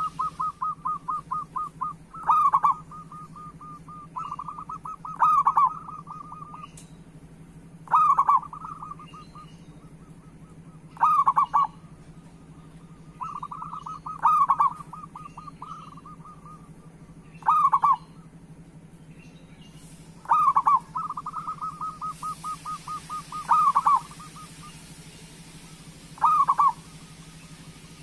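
Zebra dove (perkutut) cooing: about ten loud coos spaced roughly three seconds apart, several joined to a fast run of short, stuttering notes. A steady low hum runs underneath.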